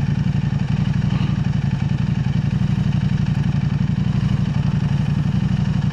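KTM 890 Adventure R's parallel-twin engine running steadily through an Arrow Race-Tech aftermarket exhaust while being ridden, with a deep, even exhaust note.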